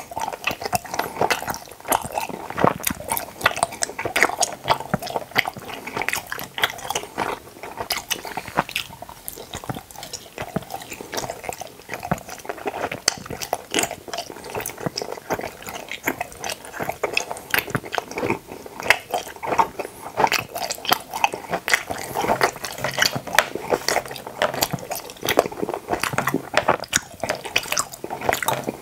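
Close-miked chewing of teeth-shaped gummy jelly candies: a continuous, dense run of small wet clicks from the mouth as the gummies are chewed.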